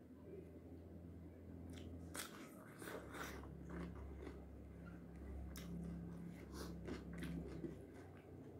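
Crisp crunching as raw cucumber is bitten and chewed close to the microphone, with a run of sharp crunches from about two seconds in until near the end.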